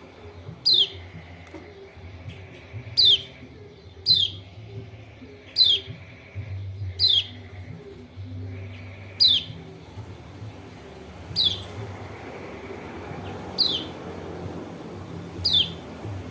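Kecial kuning, a white-eye (pleci lombok), giving a sharp, steeply falling call note, repeated nine times at one- to two-second intervals. It is a lure call used to prompt a quiet caged bird of its kind to answer.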